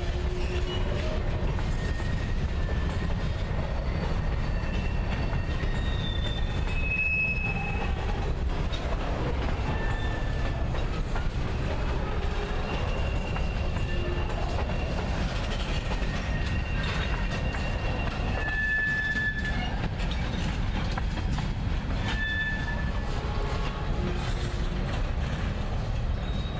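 Freight cars (open-top hoppers and tank cars) rolling past, a steady low rumble of steel wheels on the rails, with short high-pitched squeals now and then.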